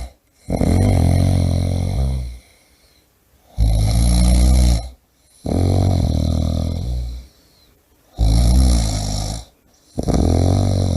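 A person snoring loudly in a steady rhythm: five snores, each one to two seconds long, with short quiet gaps between them.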